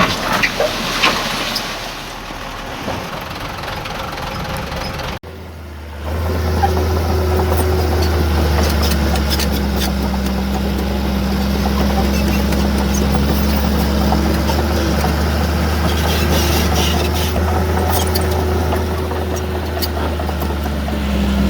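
Heavy diesel earthmoving machinery running: machine noise with scattered knocks at first, then, after a sudden break about five seconds in, a steady deep engine drone.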